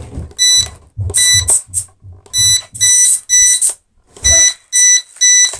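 Electronic beeping from the drone under repair: about eight short, high-pitched beeps in an uneven run. The beeping comes while its camera gimbal fails to move, likely a warning signal.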